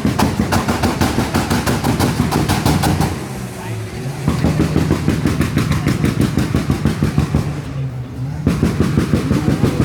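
Car engine held on a 2-step launch-control rev limiter, its exhaust popping and banging rapidly in long runs, with two short breaks where the revs drop.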